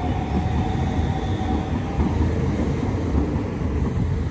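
Class 395 high-speed electric multiple unit pulling out past the platform: a steady low rumble of wheels and running gear, with a faint whine that fades out about two seconds in.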